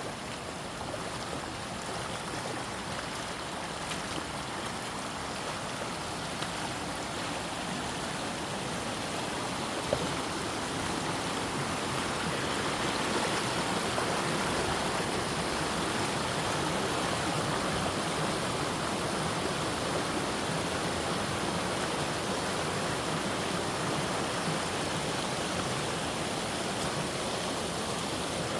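Steady rush of running water, growing a little louder about halfway in.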